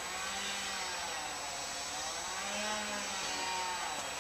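A motor running steadily, its pitch rising and falling slowly.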